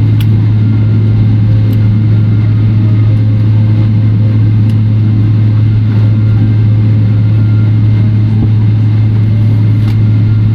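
Steady, loud low drone inside the cabin of a Boeing 777-300ER parked at the gate, the aircraft's air-conditioning and ventilation running, with a few faint clicks.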